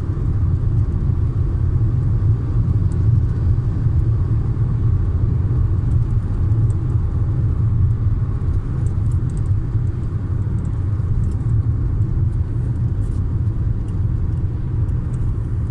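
A car's cabin while driving at steady speed: a constant low rumble of road and engine noise.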